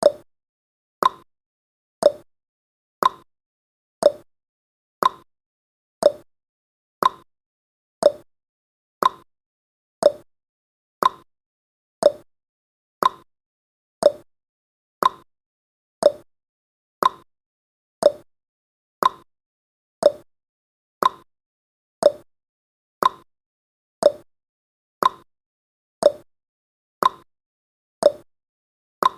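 Clock-tick sound effect of a countdown timer: one short, sharp tick every second.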